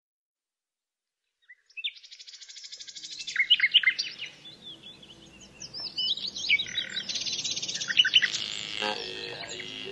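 Birds singing: several birds overlapping in fast trills and quick rising and falling chirps, beginning about a second and a half in.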